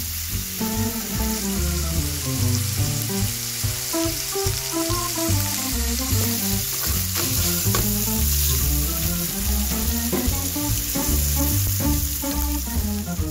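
Food and sliced garlic sizzling as they fry in oil in a nonstick pan, stirred now and then with a metal spoon, under background music with a melody and bass line.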